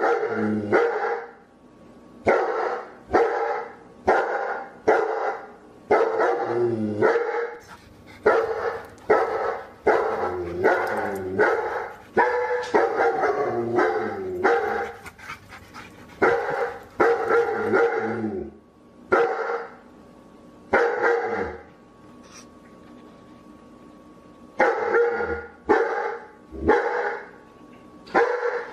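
A dog barking repeatedly in quick runs of short barks, with a pause of a few seconds after the middle.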